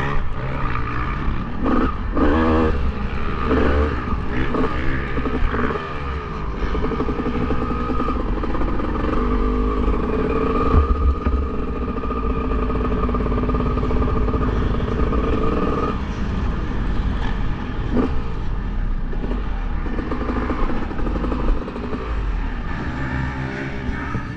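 Motocross bike engines running and revving on the track. One engine note holds steady for several seconds from about a quarter of the way in, then drops away past the middle.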